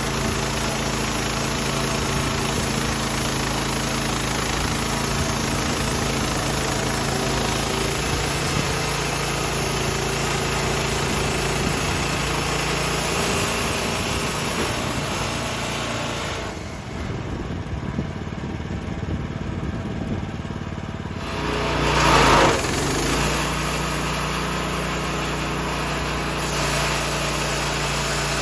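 An engine runs steadily. Its sound changes and drops a little about two-thirds of the way through, then swells into a brief louder surge with a falling pitch before settling back to a steady run.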